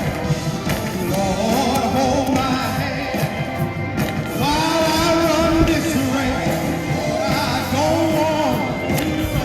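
Worship song: singing over instrumental accompaniment, with long held sung notes.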